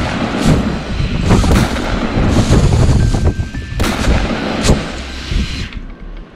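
A run of loud bangs and booms in quick succession, several sharp cracks over a heavy low rumble, dying away near the end.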